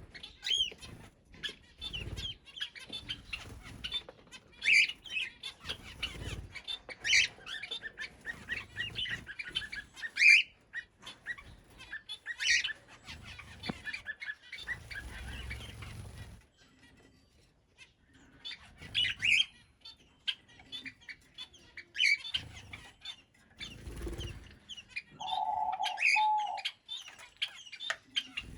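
Aviary birds chirping and calling in quick short notes, with bursts of wing flapping. A lower, steady call comes in near the end.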